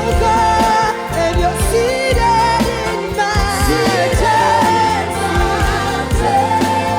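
A gospel praise and worship band playing with sung vocals: a melodic voice line over bass, keys and drums.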